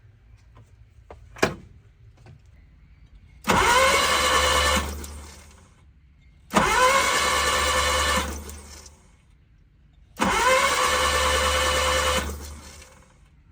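Starter motor of a small Daewoo truck cranking the engine in three separate tries of about one to two seconds each, each spinning up quickly and winding down, without the engine catching: the mechanic finds a spark plug bad. A sharp click comes shortly before the first try.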